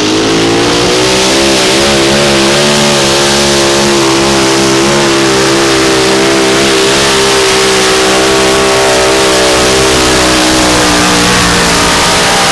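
Modified mini pulling tractor's engine at full throttle, pulling the sled down the track. The engine speed wavers briefly a couple of seconds in, then holds a steady high pitch.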